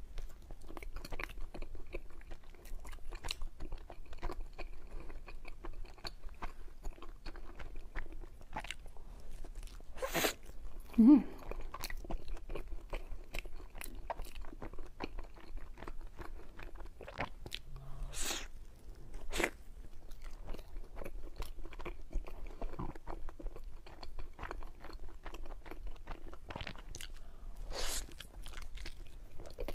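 Close-miked chewing and biting of soft cream-filled mochi cake: a steady run of short sticky mouth clicks and smacks, with several louder bites spread through.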